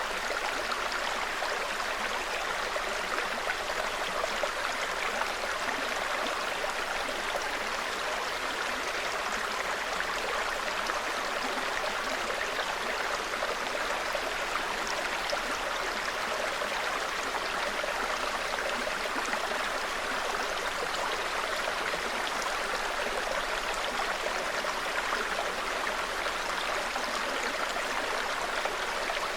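A small forest stream flowing steadily, an even, unbroken rush of water.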